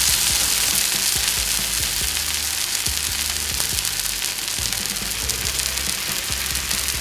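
Semolina-paste bread slices sizzling steadily in desi ghee on a hot flat tawa, the paste side frying against the pan. Low background music plays underneath.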